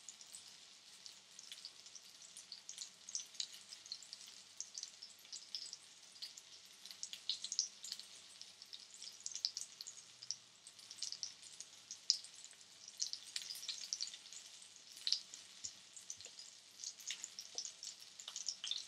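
Flour-coated mince cutlets shallow-frying in oil in a frying pan, sizzling steadily with many small irregular crackles and pops.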